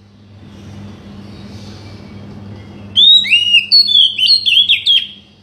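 Oriental magpie-robin (kacer) singing: after about three seconds of quiet, one loud two-second phrase of clear gliding whistles and quick chirps.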